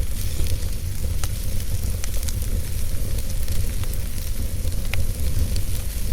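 Wood fire burning in a fireplace: a steady low rumble of the flames with scattered sharp crackles and pops from the burning logs, the sharpest about five seconds in.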